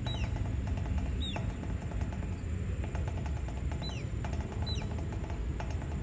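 A bird gives four sharp whistled calls, each sliding steeply down in pitch, two near the start and two past the middle, over a steady low background rumble.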